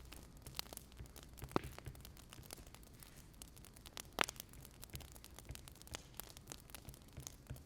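Wood fire crackling: irregular small snaps over a low rumble, with two louder pops, about one and a half and four seconds in.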